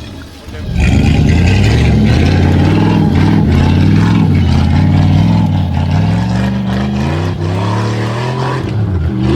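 A vehicle engine revving, its pitch rising and falling repeatedly; it starts about a second in and drops away near the end.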